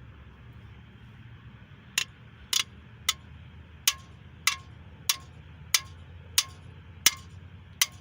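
A hammer lightly tapping a cam bearing tool to drive a camshaft bearing out of a small-block Chevy 350 engine block. About two seconds in, a run of about ten sharp metallic taps starts, evenly paced at roughly one every two-thirds of a second, each with a short ring.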